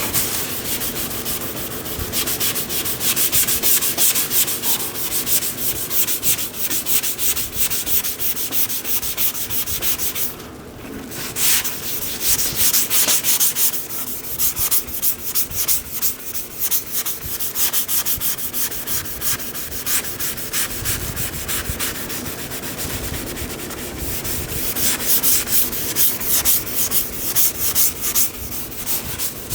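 Abrasive sanding of a car body panel in rapid, continuous rubbing strokes, pausing briefly about ten seconds in.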